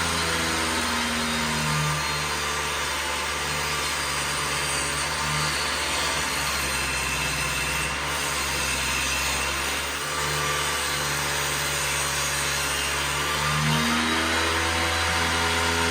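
Table saw with a dado blade running, cutting a groove along a 2x4. The motor's pitch drops about two seconds in as the board feeds into the blade, holds low through the cut, and rises back near the end as the blade runs free.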